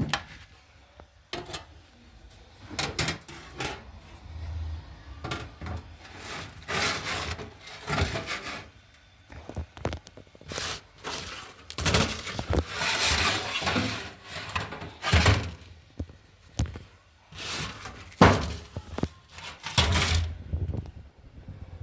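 Objects being handled and set down: irregular knocks, thuds and scraping noises, with a sharp knock a little after the middle and longer stretches of scraping.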